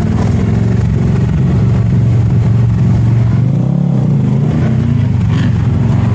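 Motorcycle engine running steadily, its pitch rising and dipping slightly.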